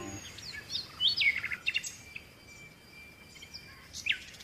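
Small songbirds chirping: short, high chirps in loose clusters, a busy run about a second in and another near the end, with a quieter gap between.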